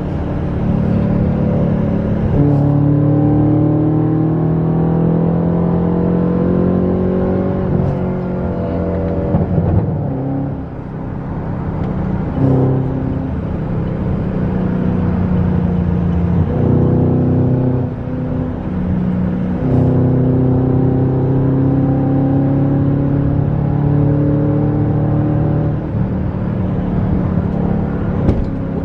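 2010 Chevrolet Camaro SS's 6.2-litre V8 through its Borla exhaust, heard from inside the cabin while driving. The engine note climbs under throttle and drops back several times as the car pulls along.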